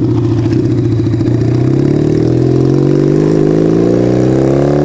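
Motorcycle engine under way, steady for about a second and a half, then rising steadily in pitch as it accelerates in gear.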